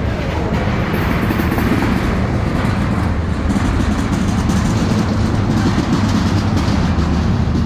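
A train running past with a loud, steady low rumble.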